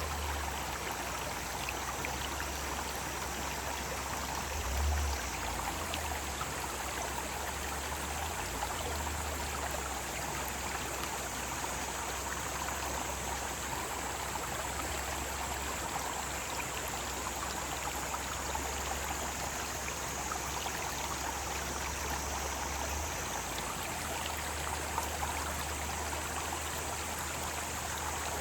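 Mountain stream flowing steadily, with a chorus of cicadas droning high in the background.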